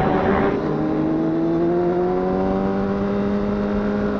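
Honda CBR1000RR's inline-four engine pulling under steady acceleration, its pitch climbing slowly and evenly through the gear.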